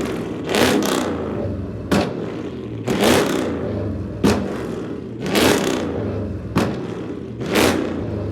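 A car engine running at a low idle, blipped in sharp revs about once a second.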